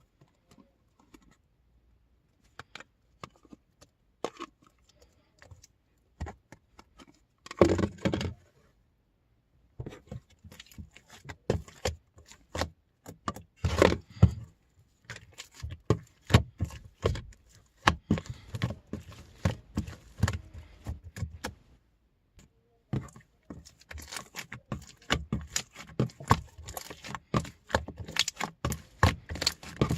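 Pink slime being squished and poked by hand, giving irregular sticky clicks and pops. They are sparse at first and become a near-continuous crackle after about ten seconds.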